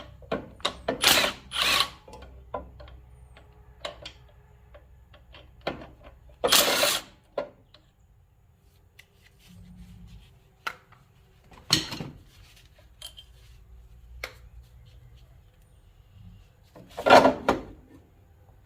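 Cordless impact tool spinning a 10mm socket on a swivel to turn fasteners, run in about five short bursts, the longest about six seconds in and near the end. Small metal clicks and taps of tool handling come between the runs.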